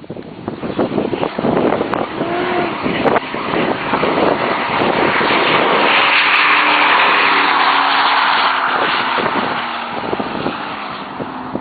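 1999 Chevrolet Silverado's 5.3-litre V8 accelerating hard as the truck drives by, swelling to a peak about halfway through and then fading as it moves away. Heavy wind buffets the microphone throughout.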